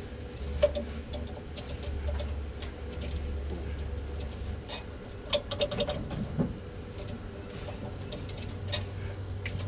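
Scattered light clicks and taps of hand tools on metal parts, over a steady low hum that drops away about four seconds in.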